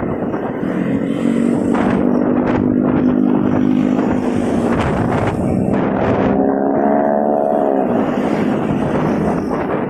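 Motorcycle engine running in road traffic, its hum steady for a few seconds, then rising in pitch as it speeds up about six seconds in and dropping back around eight seconds, over a steady rush of road and wind noise.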